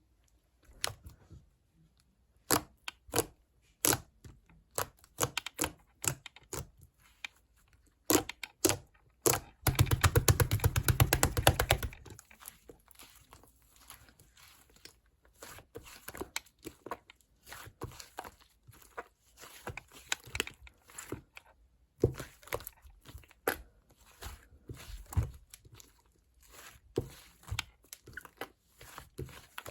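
Scattered taps and clicks of things being handled, with a rapid, evenly spaced run of clicks lasting about two seconds, around ten seconds in, the loudest part.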